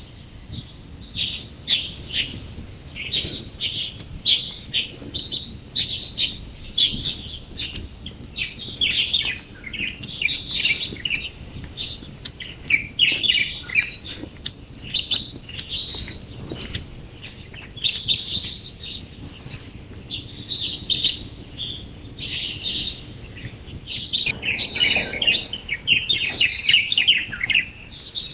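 Several small songbirds chirping and singing, short calls and trills overlapping one after another with hardly a pause, busiest near the end.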